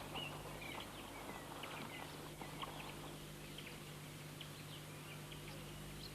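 Faint African bush ambience: scattered short high bird chirps and insect-like clicks over a low steady hum.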